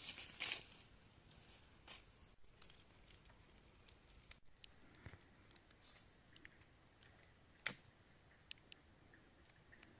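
Faint rustling at the start, then a few scattered small clicks and ticks, one sharper click about three-quarters of the way through.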